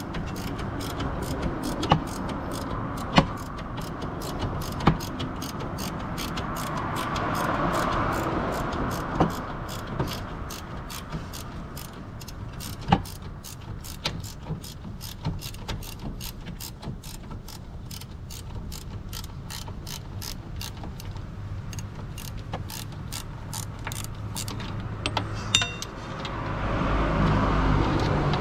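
Hand ratchet wrench clicking in an even run of about two to three clicks a second as a fastener is turned, with a few louder metal knocks in between.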